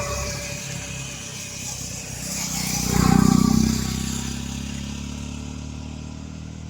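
A motor vehicle passes by, its engine growing louder to a peak about three seconds in and then fading away.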